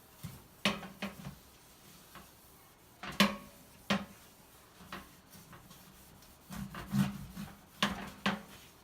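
Scattered knocks and clatters of hard objects being handled and set down, several in quick clusters with pauses between.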